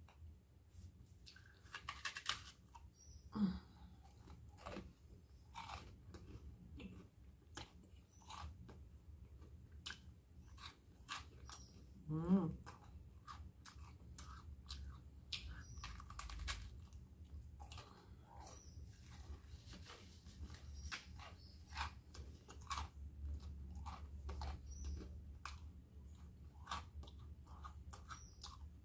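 Close-up eating sounds of crisp toast spread with chocolate cream being bitten and chewed: many small crisp crunches in an uneven run. Two short murmurs come from the eater, one a few seconds in and one about halfway.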